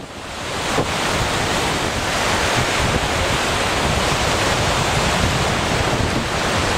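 Lake waves washing onto the shore, with wind gusting across the microphone in a low rumble.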